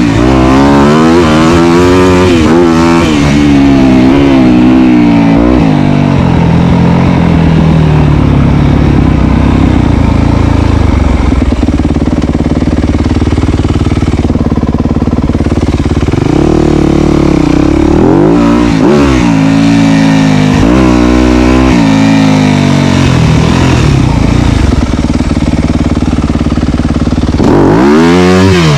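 Dirt bike engine being ridden, its pitch repeatedly climbing and dropping with throttle and gear changes. It holds steadier for a stretch in the middle, then revs up and down again and climbs once more near the end.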